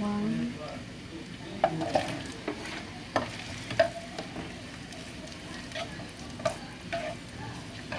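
Garlic slices frying in hot sesame oil in a pan, the oil sizzling steadily while a spatula stirs them. The spatula knocks against the pan in a few sharp clicks between about one and a half and four seconds in.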